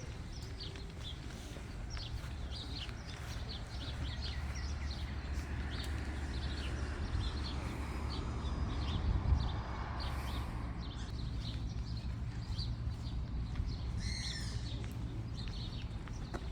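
Small birds chirping over and over in short high notes, with one louder call of several quick falling notes near the end, over a steady low rumble.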